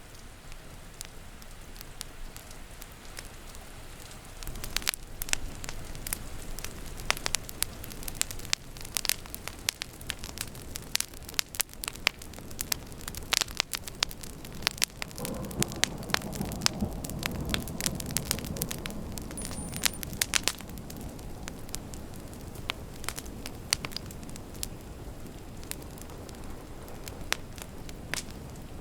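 Wood fire crackling and popping, with dense sharp pops through the middle and fewer toward the end, over a steady hiss of rain. About halfway through, a low rumble of thunder lasts several seconds.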